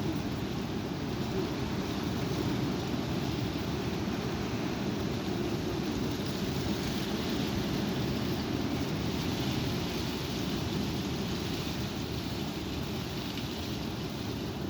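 Strong wind rumbling against the microphone, with a rushing hiss that swells a little in the middle.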